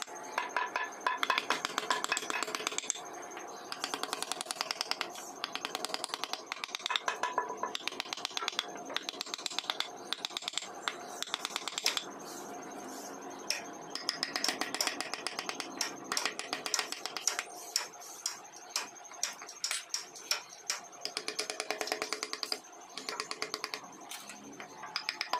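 Hand woodcarving tools tapping and cutting into wood: a rapid, irregular run of sharp clicks and taps, several a second.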